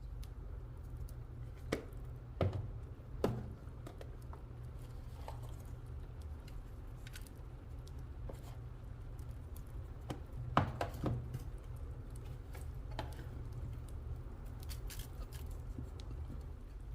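Scattered light knocks and clicks of kitchen utensils and food being handled, a few louder knocks near the start and again past the middle, over a steady low hum.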